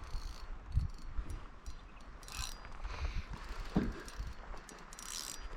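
Fishing reel being cranked while a fish is played in, ticking and clicking, with scattered small knocks and a dull thump.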